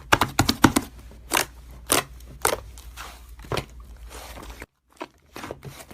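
Slime being pressed and squished by hand, giving crisp clicking pops about twice a second. The sound cuts out completely for a moment near the end.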